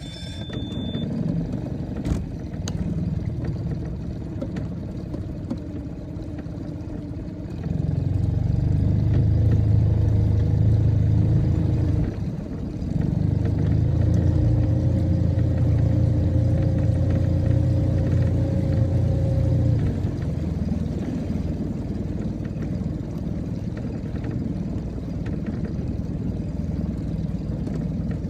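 A boat's outboard motor running at trolling speed as a steady low hum. It gets louder about a third of the way in, dips briefly, picks up again, and eases off a few seconds later.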